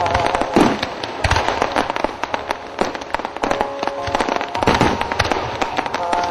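Fireworks display: dense crackling and popping throughout, with deeper booms about a second in and again near five seconds.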